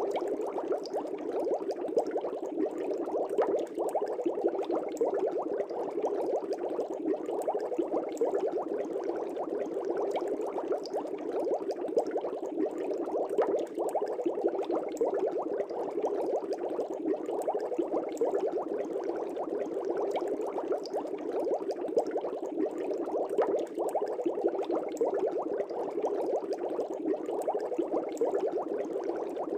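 Aquarium air bubbles rising and breaking at the water surface in a fish tank, a steady dense bubbling with fine rapid crackle.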